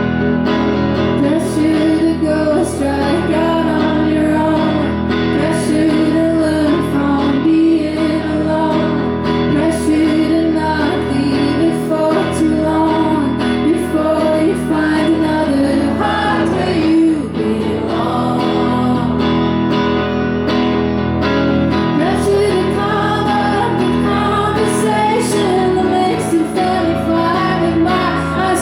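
A woman singing live to her own guitar accompaniment, with the guitar strummed steadily under the voice.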